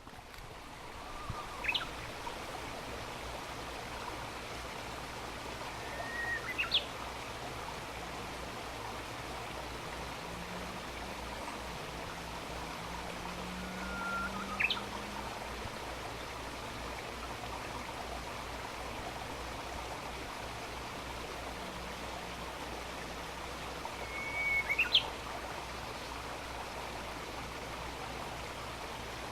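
Japanese bush warbler (uguisu) singing its spring song four times, each a held whistled note followed by a quick rising flourish, the "hoh-hokekyo" phrase. A steady background rush runs under the songs.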